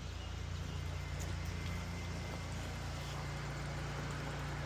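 Pressure washer running: a steady engine hum under a hiss of water spraying.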